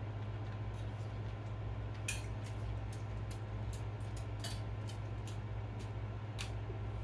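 Light, irregular clicks and clinks of kitchen utensils and dishes, about a dozen in all, over a steady low hum.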